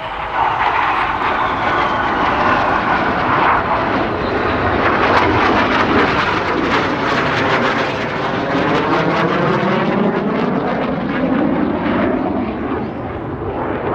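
Several BAE Hawk T.65A jet trainers, each with a single turbofan, flying past in display formation: loud jet engine noise that swells about half a second in and stays loud, with a sweeping, falling pitch as the aircraft pass by.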